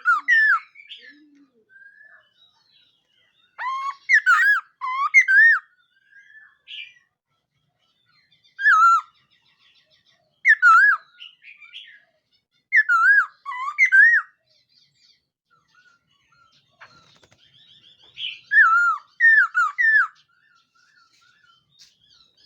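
Black laughingthrush singing: short phrases of loud, clear, swooping whistles, each about a second long, repeated every few seconds with pauses between.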